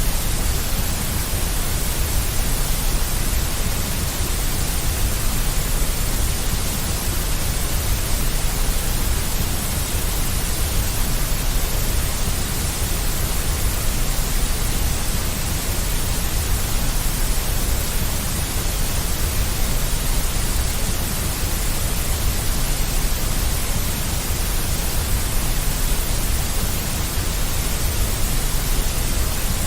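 Steady synthetic white noise, a deep, even hiss with strong low rumble and no changes.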